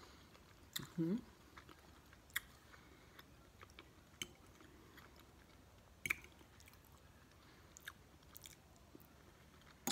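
Close, quiet chewing of a mouthful of stuffed bell pepper, ground beef and rice, with scattered sharp wet mouth clicks every second or two. A short hum of voice comes about a second in.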